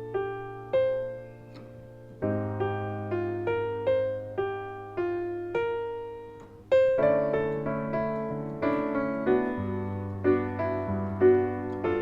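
Solo piano playing a slow bossa nova, melody and harmony together with both hands: single melody notes over sustained chords, the bass note changing every few seconds.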